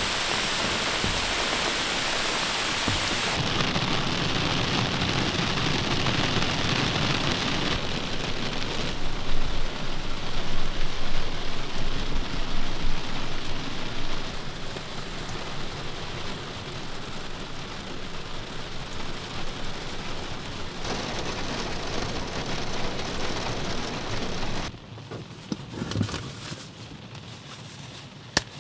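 Heavy rain pouring down steadily, in several cut-together shots; it is quieter for the last few seconds.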